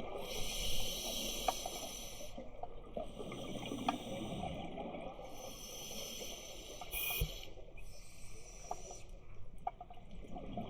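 Scuba diver breathing through a regulator underwater: long hissing inhalations alternating with bubbling exhalations, with scattered small clicks.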